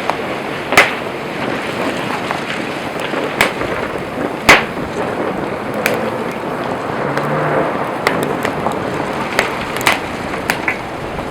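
Wood campfire burning: a steady rushing hiss of flame with sharp crackles and pops from the burning wood, two loud pops standing out, one just under a second in and one about four and a half seconds in.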